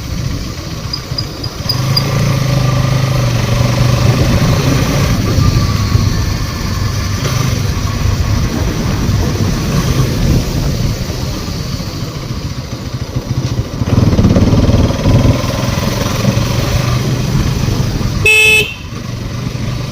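Motorcycle engine running steadily under way, with wind rushing over the microphone, getting louder about two-thirds of the way through. Near the end a vehicle horn gives one short beep.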